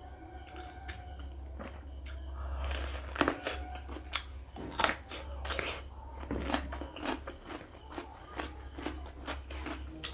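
A person biting and chewing raw cucumber at close range: a run of sharp, crisp crunches, the strongest about three and five seconds in, with wet chewing between them.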